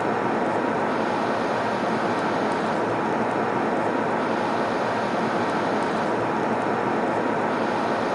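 Steady airliner cabin noise in cruise: an even, unchanging rush of airflow and engine noise, with a faint steady tone in it.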